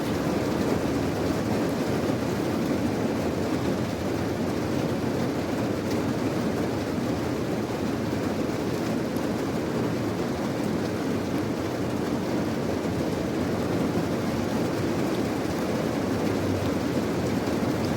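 Steady heavy rain: a dense, even rush of noise weighted toward the low end, with no single drops or breaks standing out.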